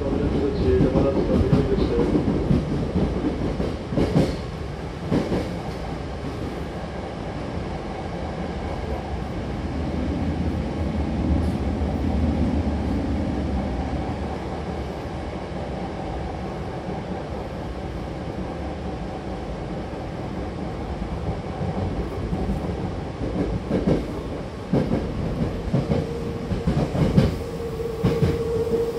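Hankyu Imazu Line commuter train running, heard from inside the car: a steady low rumble with occasional rail-joint clicks and knocks. A steady whine is heard at the start and comes in again near the end.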